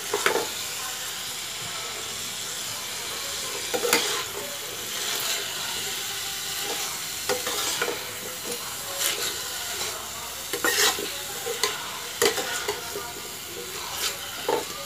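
Cauliflower florets sizzling in hot oil and ghee in a frying pan, with no water added, while a spatula stirs them, scraping and knocking against the pan now and then.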